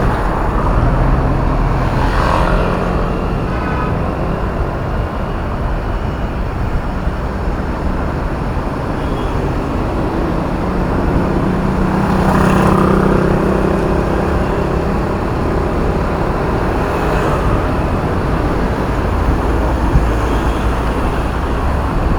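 Heavy road traffic heard from a bicycle riding in a bike lane: a steady rumble of car, bus and truck engines and tyres, with vehicles passing close by, most plainly about 2 s and 12 s in.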